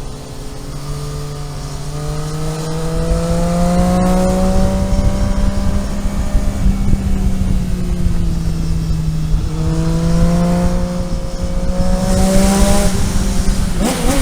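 Car engine heard from on board, pulling under acceleration with its pitch rising. The pitch drops at a gear change about two-thirds of the way through, then rises again, with a short sharp sweep near the end.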